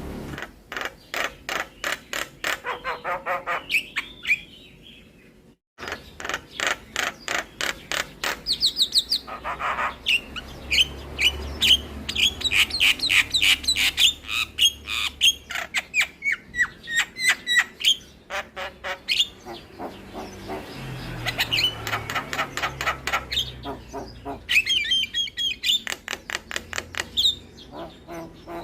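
Javan myna singing a full, varied song: runs of rapid chattering clicks mixed with whistled and squawked notes. The song breaks off briefly about five seconds in, then resumes.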